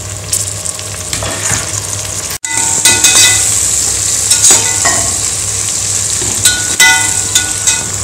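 Sliced onions, green chillies and whole spices sizzling in hot oil in a pressure-cooker pot, with fresh mint and coriander leaves just added, while a perforated steel spatula stirs them and scrapes and rings against the metal pot several times. The sizzle breaks off briefly about two and a half seconds in and is louder after it. This is the frying of the onions and leaves toward brown for a biryani base.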